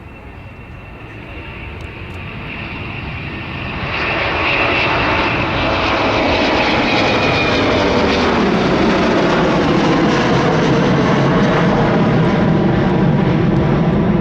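Jet airliner engines at takeoff power, growing louder over the first few seconds into a steady loud roar, with a high fan whine in the first half of the loud part.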